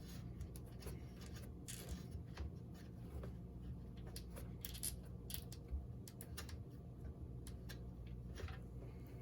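Irregular light clicks and rattles of small parts being handled and sorted, as through a stash of saved electrical connectors, over a steady low hum.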